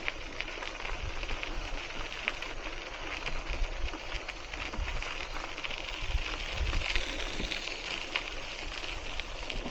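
Hiboy C1 e-bike rolling slowly along a path: a steady crackling patter of tyres on the surface, with gusty wind rumble on the microphone.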